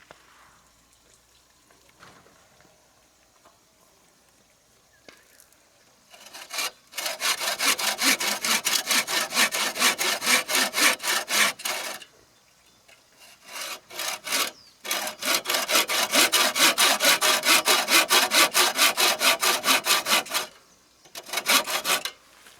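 Hand saw cutting through wood in quick, even back-and-forth strokes, about four a second. The strokes come in several runs with short pauses between, starting about six seconds in.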